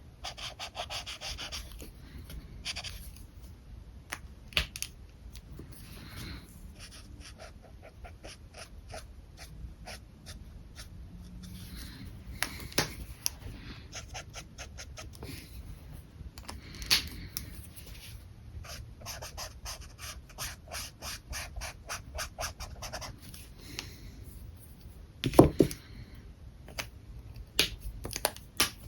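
Alcohol markers stroking across paper in runs of quick back-and-forth strokes, with scattered sharper clicks, the loudest about 25 seconds in.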